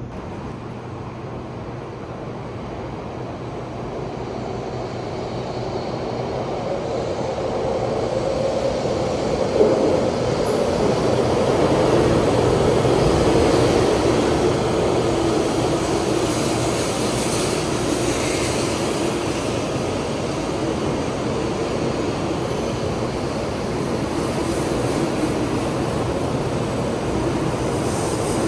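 Taiwan High Speed Rail 700T train pulling into an underground station platform. Its rushing noise builds over about the first twelve seconds, with a short thump about ten seconds in, then holds steady as the cars slide past.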